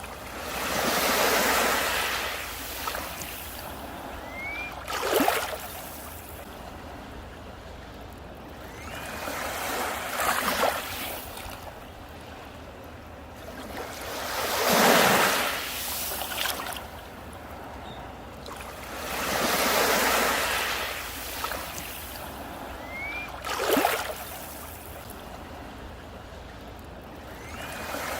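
Sea waves breaking on a beach: surges of surf swell and fall back every few seconds, with short sharp splashes between them.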